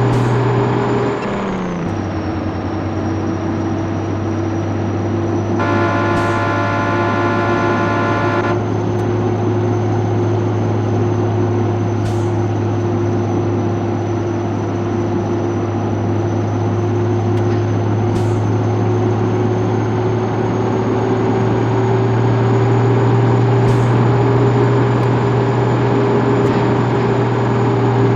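1967 Scania 110 truck's six-cylinder diesel engine running under way at a steady drone; its note drops about a second and a half in, then climbs slowly. A horn sounds for about three seconds partway through.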